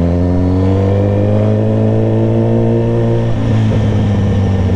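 Motorcycle engine accelerating, its pitch rising steadily and then holding; a little past three seconds in the note changes and turns rougher as the throttle eases.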